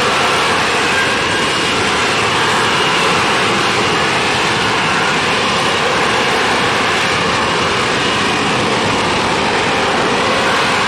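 Airplane engine noise, loud and steady, with faint whining tones near the start.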